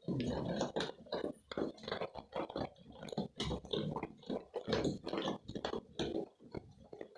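Goats eating wheat close to the microphone: repeated crunching and chewing, in quick irregular bites a few times a second.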